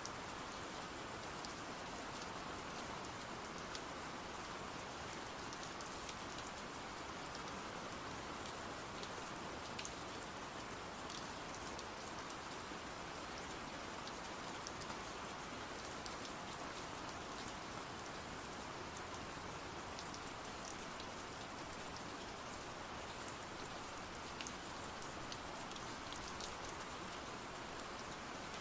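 Steady rain, an even hiss with scattered sharp ticks.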